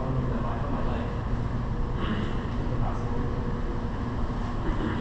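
Steady rumble of a moving vehicle, with a low steady hum under it.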